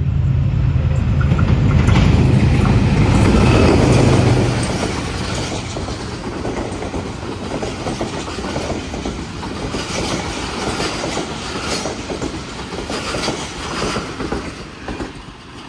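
Diesel-hauled express passenger train passing through a station without stopping. A heavy low rumble for the first four seconds or so, then the coaches rolling by with rapid clickety-clack, fading near the end.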